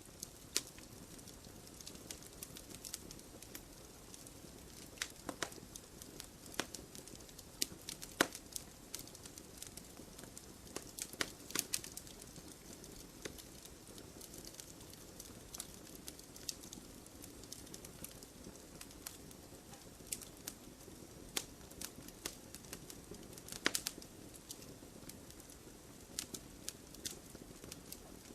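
Wood fire burning, with a steady low hiss and irregular sharp crackles and pops, a few louder snaps scattered through it.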